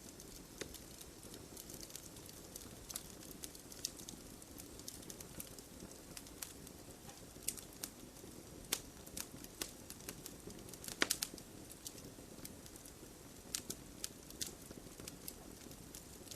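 Wood logs burning in a fireplace: a faint steady rush of flame under irregular sharp crackles and pops, with a quick cluster of louder pops about eleven seconds in.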